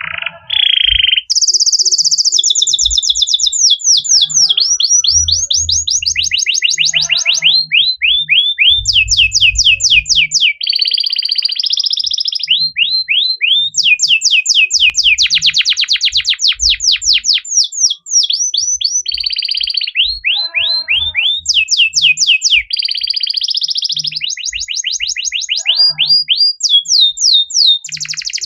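Domestic canary singing a long, unbroken song of rapid trills, each a quick run of the same whistled note, switching to a new note type every second or two.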